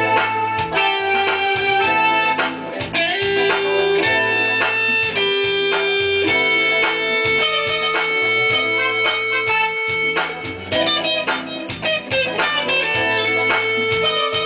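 Guitar music: a plucked guitar melody with some long held notes over a lower accompaniment.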